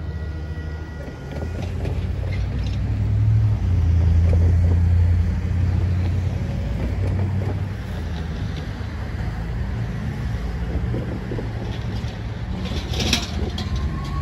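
GO Transit commuter train's diesel locomotive pulling away, a steady low drone that is loudest about four seconds in and then slowly eases as the train recedes. A few sharp clicks come near the end.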